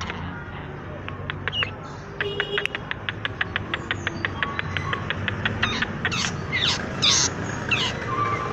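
Long-tailed shrike (cendet) singing: a fast run of sharp clicking notes, about seven or eight a second, then several loud downward-sweeping notes near the end, over a steady low hum.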